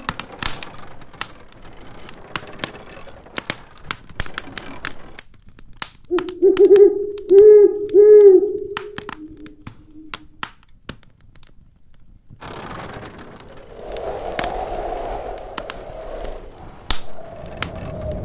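Wood fire in a fireplace crackling, with sharp pops and snaps throughout. About six seconds in, a loud wavering howl of storm wind rises and falls twice. From about halfway on, a steady rush of wind carries on beneath the crackle.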